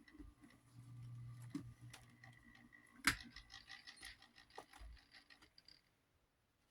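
Light clicks and metallic clinks of small desk fan parts being handled, with one sharper click about three seconds in followed by a run of small ticks. A faint steady hum fades out in the first couple of seconds.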